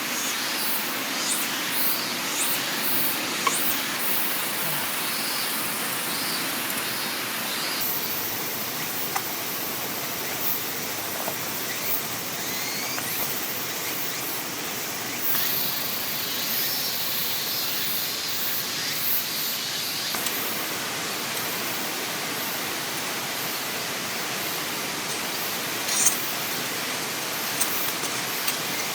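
Steady rushing of flowing water, with scattered small ticks and clicks over it; its character shifts abruptly a few times.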